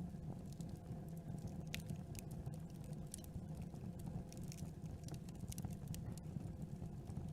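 Campfire burning: a low steady rumble of the flames with irregular sharp crackles and pops of the wood, several a second.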